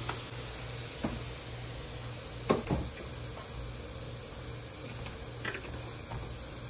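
Sliced steak with peppers and onions sizzling steadily on a griddle pan, with a few short knocks of kitchen utensils, the loudest a double knock about two and a half seconds in.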